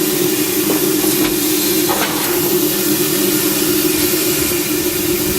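Steady hiss of steam with a constant low hum underneath, in the cab of an ALCO 2-8-0 steam locomotive with the blower turned up and the injectors feeding water to the boiler to bring the steam pressure back up. A few faint knocks come about one and two seconds in.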